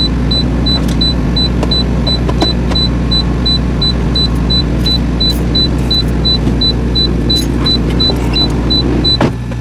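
Semi truck's diesel engine running steadily under a rapid, high-pitched beeping, about three beeps a second, as the tractor-trailer reverses to a dock door. The beeping stops near the end with a sharp knock.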